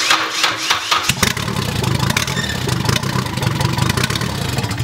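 Nissan 240SX (S13) turbocharged four-cylinder engine cranked on the starter, catching about a second in and running for a few seconds with its open vacuum lines plugged by fingers, then cutting out right at the end. The engine has a vacuum leak and barely stays running.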